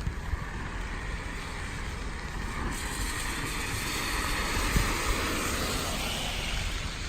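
A car passing on a wet road: tyre hiss on the wet pavement swells over a few seconds, is fullest in the middle and fades near the end, over the steady patter of rain.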